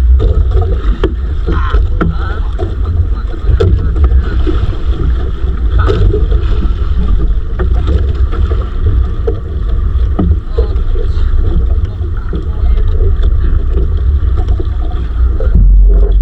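Small fishing boat at sea: a steady low rumble of wind and water on the microphone, with scattered knocks from the hull and gear.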